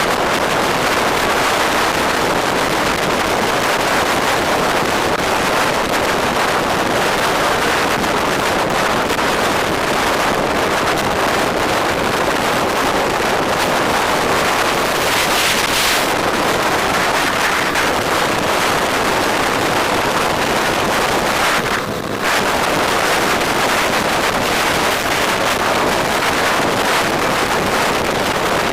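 Steady rush of wind on the microphone while riding, mixed with vehicle noise; it dips briefly about 22 seconds in.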